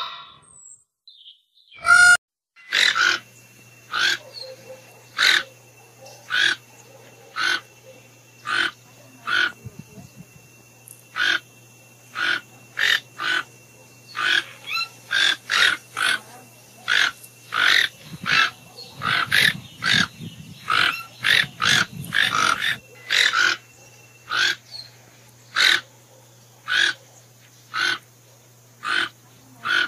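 Chestnut-mandibled (yellow-throated) toucan calling: a long series of short, sharp yelping calls repeated about once a second, at times in quicker pairs, over a faint steady low hum.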